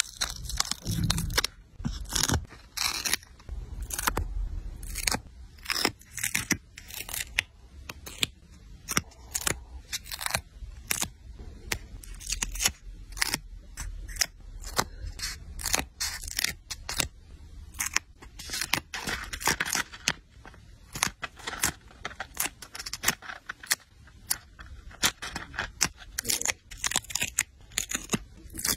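Paper and stickers being handled for a journal collage: a quick, irregular run of crisp snips, rips and rustles.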